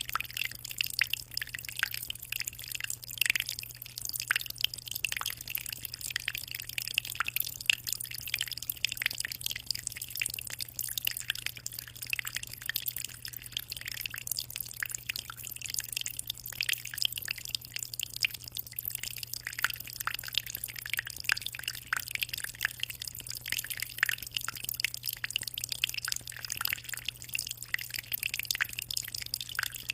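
Aquarium water trickling and bubbling, a steady stream of many small drips and splashes, with a low steady hum underneath.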